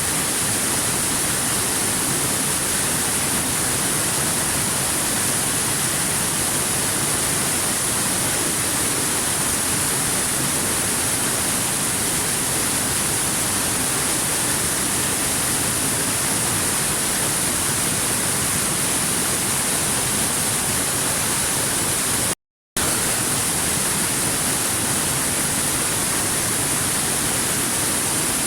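Waterfall, a steady, unchanging rush of falling water. It drops out to silence for a split second about twenty-two seconds in.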